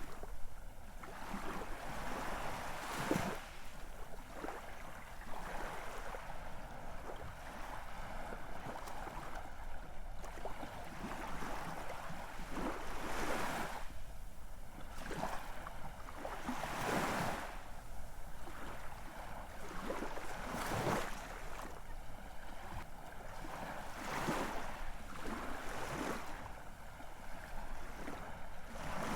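Ocean surf: a steady wash of water with waves breaking and surging every few seconds, at uneven intervals.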